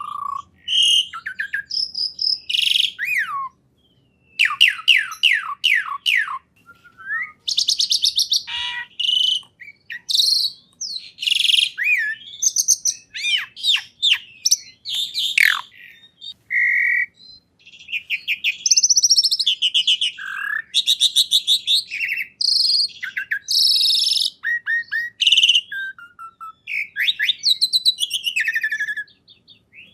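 A songbird singing a long, varied song of rapid high chirps, falling sweeps and trills, broken by short pauses.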